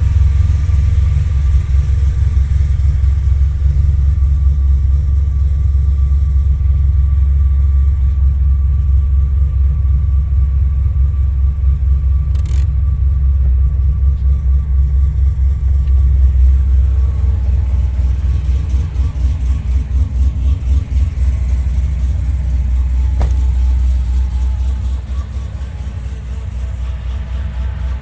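Supercharged 427 cubic-inch V8 of a modified 2011 Corvette ZR1 idling after a cold start, a deep steady idle through a valved titanium exhaust. The sound gets somewhat quieter about three-quarters of the way through.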